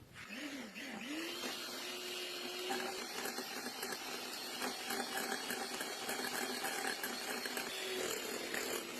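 Electric kitchen appliance motor running with a grinding whir. Its pitch wavers as it starts up and then holds steady.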